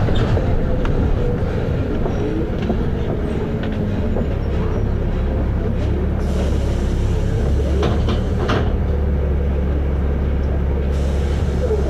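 Volvo B7RLE single-deck bus heard from inside, its six-cylinder diesel running steadily with short body rattles. A hissing rush comes in about six seconds in and stops suddenly about five seconds later, while the engine note deepens under load.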